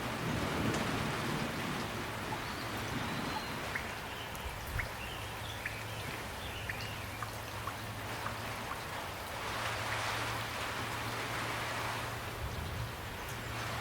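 Steady rain falling, with individual drops landing close by as scattered sharp ticks.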